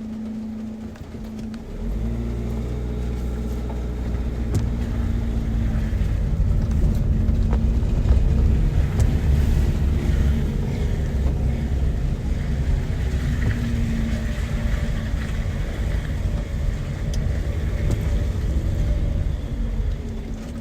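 A motor vehicle's engine running close by: a steady low rumble with a droning pitch, growing louder about two seconds in and staying at that level.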